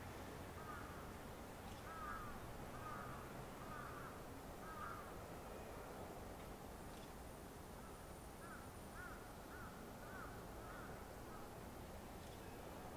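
A bird calling in runs of short, evenly spaced arching calls, one run a few seconds in and a longer one in the second half, over faint steady background noise.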